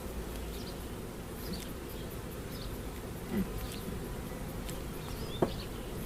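Honey bees buzzing steadily in a swarm around an open hive. A single sharp knock comes about five and a half seconds in.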